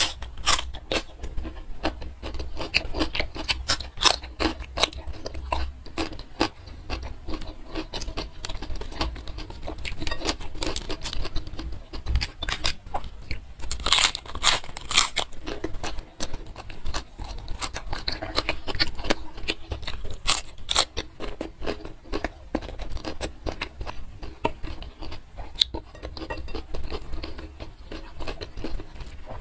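Close-miked eating: crunching bites of raw cucumber and chewed mouthfuls of rice eaten by hand, a dense run of wet clicks and smacks, loudest about halfway through.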